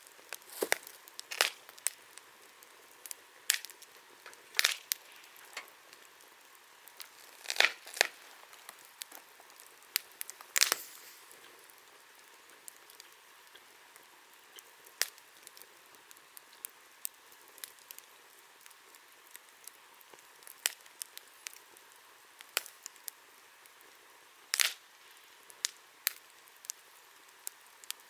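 Wood bonfire crackling, with irregular sharp pops and snaps over a faint hiss; the pops come thick and fast for the first ten seconds or so, then thin out to occasional snaps.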